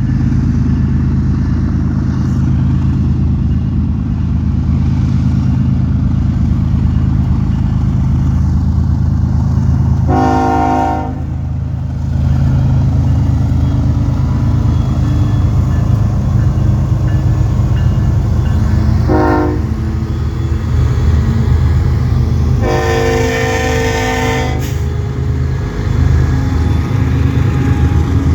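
BNSF intermodal freight train passing close by under diesel power, with a deep, steady locomotive engine rumble. A multi-chime locomotive air horn sounds three times: a blast about ten seconds in, a short one near twenty seconds, and a longer one of about two seconds shortly after.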